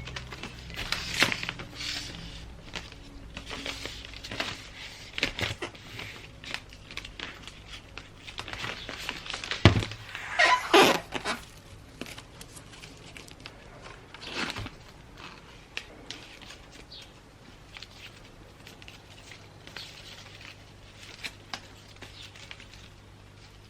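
Gift wrapping paper being handled, rustling and crinkling in irregular strokes. There is a sharp knock about ten seconds in, followed by the loudest burst of crinkling, and another burst a few seconds later. The rustling thins out towards the end.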